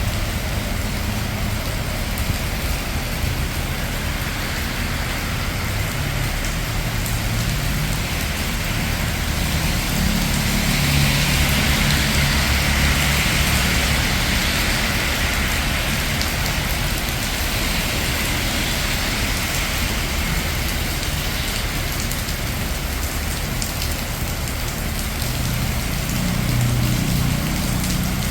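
Steady rain falling on a city street, with traffic passing on the wet road. Around the middle, tyre hiss and a low engine rumble swell up and fade as a vehicle goes by, and another low rumble comes through near the end.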